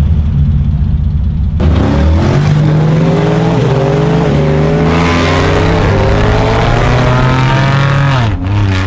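HSV Maloo R8 ute's V8 accelerating hard from a standstill, revving, with the tyres squealing and smoking from about a second and a half in. The sound cuts off sharply near the end.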